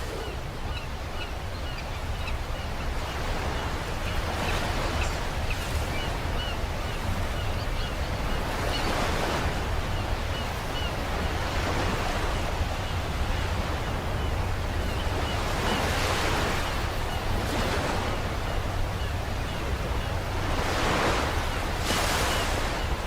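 Sea waves breaking and washing on the shore, swelling four times, with a steady low wind rumble on the microphone.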